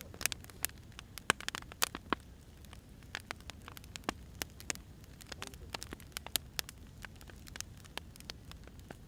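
Wood fire crackling: irregular sharp pops and snaps from burning firewood, a few louder ones in the first two seconds, over a low steady rumble.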